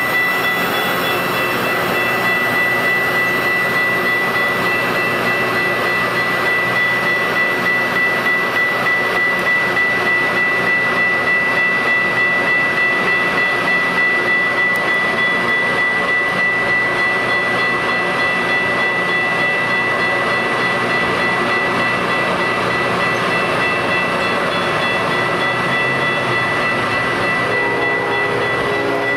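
Metra bilevel commuter coaches rolling past at close range: steady wheel and rail noise with a light clickety-clack, over a steady high ringing tone. Near the end a lower pitched hum joins in.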